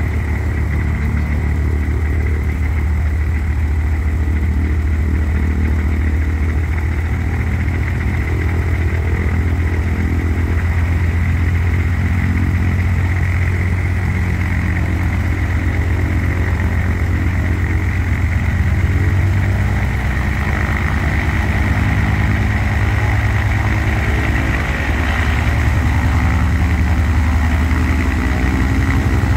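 Antonov An-2's nine-cylinder radial engine and propeller running steadily, growing somewhat louder about two-thirds of the way through.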